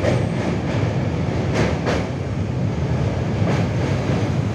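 Maurya Express passenger train running, heard from inside the coach at the window: a steady, loud rumble of wheels on rails, with a few sharp clacks.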